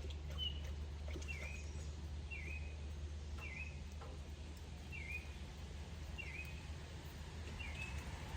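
A bird repeats a short chirp about once a second, over a steady low rumble.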